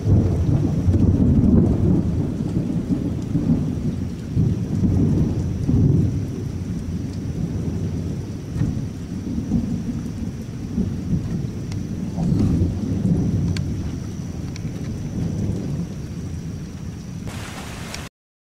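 Thunder rumbling over steady rain: it starts suddenly, rolls on in waves for over fifteen seconds while slowly fading, and then cuts off abruptly near the end.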